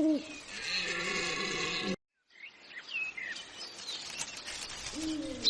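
Birds chirping over outdoor ambience, after a buzzy stretch that stops at a sudden cut about two seconds in.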